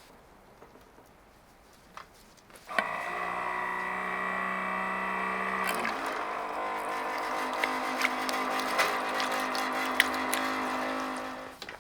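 Small electric water pump running as water runs into a container: a steady, many-toned hum that starts suddenly about three seconds in, steps to a different pitch near the six-second mark, and stops shortly before the end.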